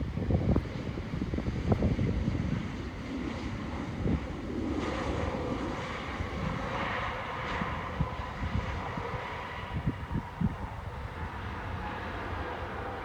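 Jet airliner's engines, a broad rush of noise with a faint whine that comes up about five seconds in and holds steady, heard over wind buffeting the microphone.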